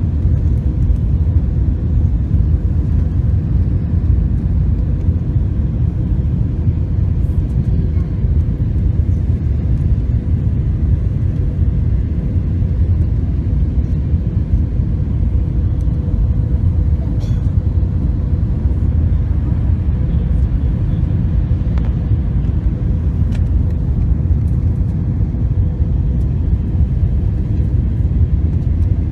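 Airliner cabin noise: a steady low rumble with a faint steady hum, unchanging throughout, with a few faint ticks.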